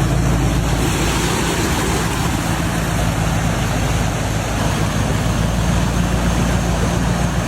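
A motor vehicle's engine running steadily at idle, under a loud, even rushing noise.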